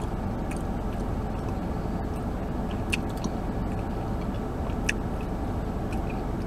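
Someone chewing a mouthful of soft steamed bun with mouth closed, with a few small wet mouth clicks, over a steady low rumble of a car interior.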